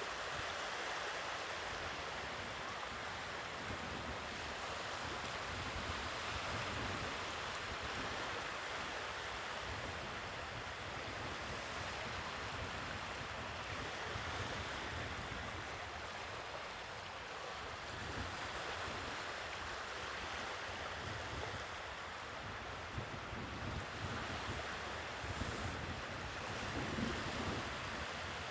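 Sea waves washing ashore in a steady wash, with wind rumbling on the microphone underneath.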